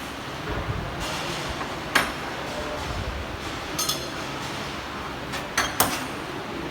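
Metal objects clinking: a few sharp, separate knocks, the last two close together, over a steady background hum.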